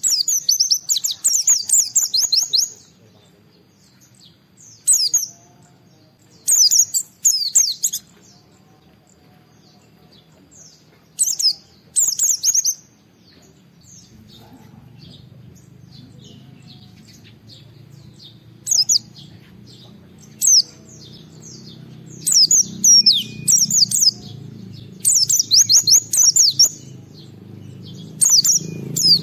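Pleci (white-eye) singing in short, fast bursts of high, quickly sliding chirps, phrase after phrase with pauses of a second or more between. A faint low hum grows underneath in the second half.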